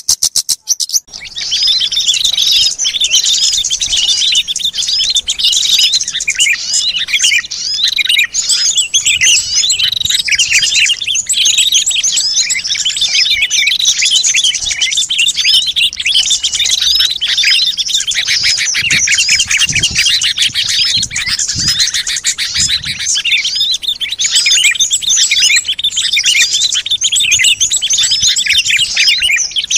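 Dense chorus of many small songbirds chirping and twittering over one another, a bird-lure recording for calling in wild small birds. It starts about a second in after a brief gap.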